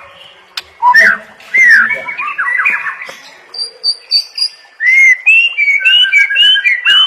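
White-rumped shama (murai batu) singing a fast, varied song of clear whistles, quick pitch glides and sharp clicks, ending in a run of repeated upslurred whistles at about three a second.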